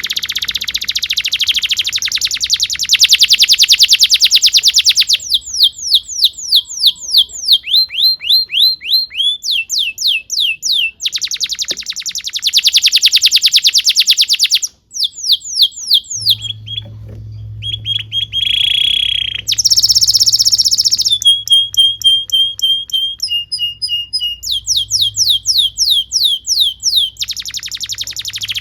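Domestic canary singing a long, continuous song in tours: fast buzzing rolls alternate with runs of repeated downward-sweeping whistled notes, a few a second.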